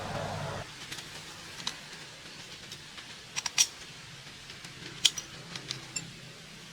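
A steady low hum stops under a second in, followed by scattered sharp clicks and taps, a few in quick pairs.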